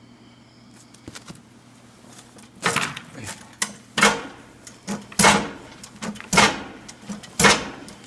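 Repeated metal-on-metal strikes on a snowplow mount, about one a second and each ringing briefly. They start about two and a half seconds in, as a part is forced toward a notch that it won't drop into.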